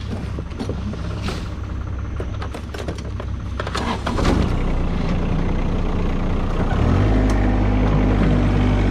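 Case C60 tractor engine running with scattered clanks and knocks. About seven seconds in it settles into a louder, steady drone.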